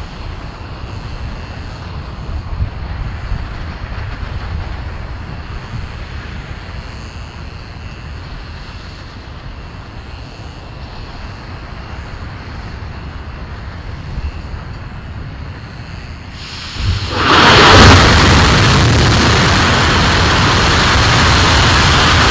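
Low rumbling background noise, then about three-quarters of the way through, the sudden loud onset of a liquid-hydrogen/liquid-oxygen RS-25 rocket engine firing on the test stand. The noise rises within about a second and then holds steady and very loud.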